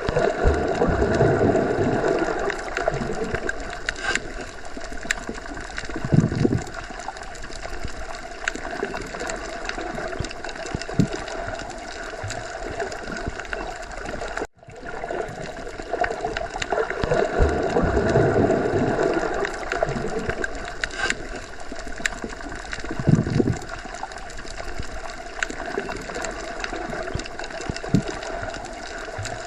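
Underwater sea ambience: a steady gurgling water wash with slow low swells and an occasional low thump. The recording loops about halfway through, with a brief dropout at the join before the same pattern repeats.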